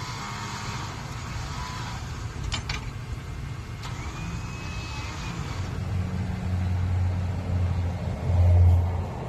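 A truck engine runs, then revs up from about six seconds in and is loudest near the end. There are a couple of sharp clicks a few seconds in.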